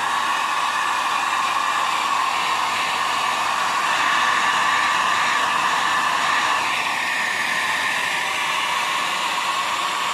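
Hair dryer running steadily, a loud even rush of blown air with a hum around its motor pitch.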